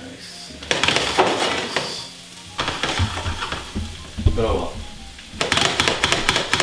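Chopped garlic and jalapeño frying in hot oil in a pan, sizzling in loud bursts as the pan is stirred and shaken, with sharp clicks of the utensil against the pan.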